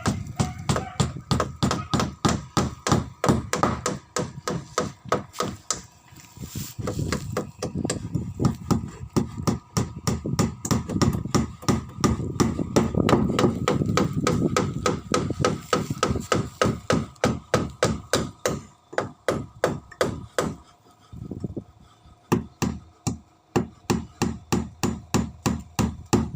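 Hammering on wood: a long, steady run of blows at about two to three a second, with a couple of short pauses in the second half.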